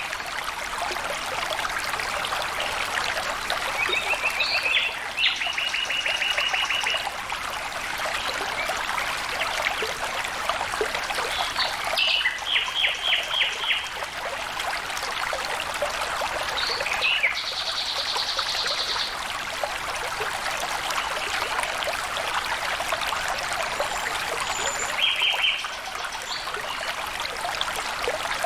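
Water flowing and trickling steadily, with birds calling over it in short, rapid trills, four times.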